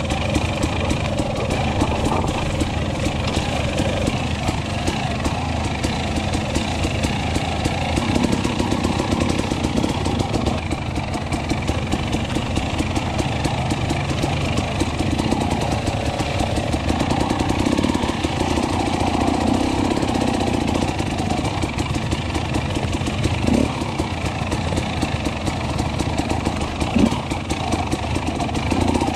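KTM enduro dirt bike engine running steadily, swelling and easing a little. There are two short knocks near the end.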